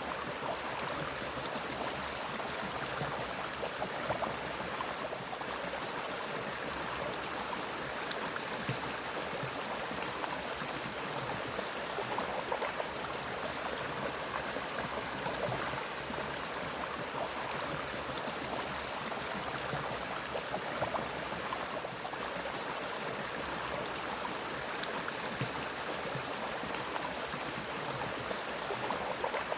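Mountain stream flowing steadily through forest, an even rush of running water. A steady high-pitched tone sits above the water sound.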